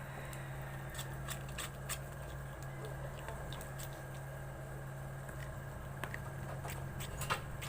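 Sticky homemade slime being handled, with scattered small clicks and pops that grow sharper near the end, over a steady low hum.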